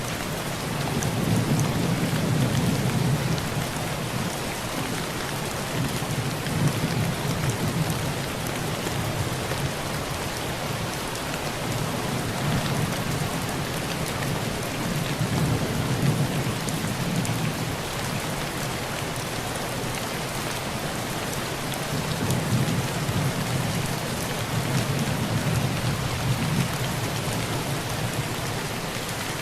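Heavy rain pouring steadily onto a tin roof, with low thunder rolling in several long swells.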